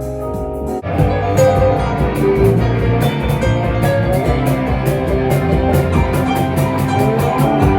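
Rock music with guitar and drum kit. A quieter passage of held notes gives way about a second in to the full band playing loudly over a steady drum beat.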